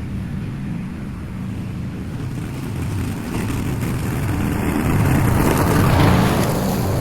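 Lawn mower engine running steadily while cutting overgrown grass, getting louder and rougher about five seconds in.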